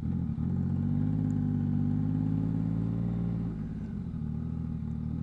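2022 Yamaha MT-09's three-cylinder engine running steadily under way through a Two Brothers aftermarket exhaust. It dips briefly near the start and eases off about three and a half seconds in as the throttle comes back.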